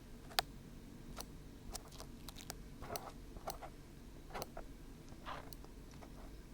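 Fingertips working at glue on a binaural microphone's silicone ear, close up: irregular small sharp clicks and a few short crackles, with no steady rhythm.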